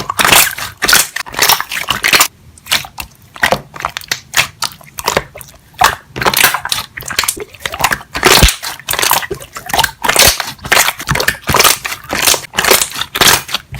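Slime being pressed and squeezed by hand, its trapped air bubbles popping in quick, sharp, crackling pops, several a second, with a brief lull a little after two seconds in.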